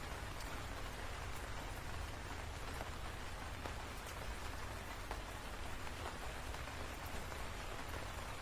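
Steady rain falling, with scattered single drops ticking through the even hiss and a low, steady rumble underneath.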